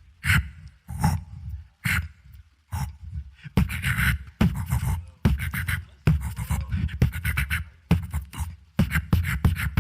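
Solo beatboxer performing vocal percussion: sharp, spaced-out hits for the first few seconds, then a quicker, denser pattern of hits from about three and a half seconds in.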